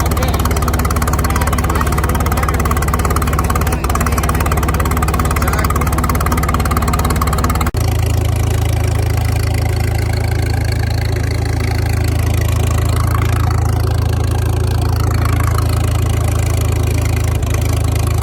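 An engine idling steadily. About eight seconds in, the sound breaks off abruptly and changes to a different steady engine note.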